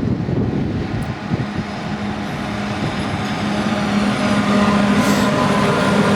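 Train approaching, its running noise growing steadily louder, with a steady low hum and fainter higher tones above it.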